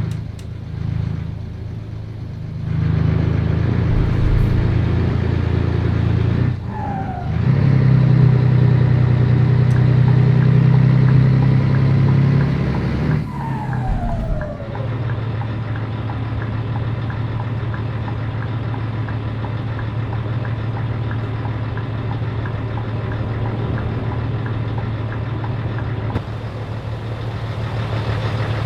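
Scania 113 truck's diesel engine running on the road, a steady low drone. Twice, about a third and half of the way through, it dips briefly while a whine slides down in pitch as the revs fall away. It is at its loudest between the two dips, then runs on evenly.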